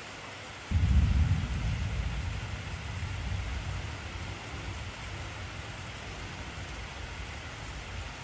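Heavy rain falling steadily, with a deep roll of thunder breaking in suddenly about a second in and slowly fading, cut off abruptly near the end.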